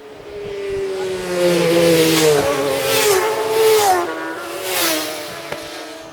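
Racing motorcycles passing at speed on a closed road circuit, one after another. Their engine notes rise, then drop in pitch as each goes by, and fade away near the end.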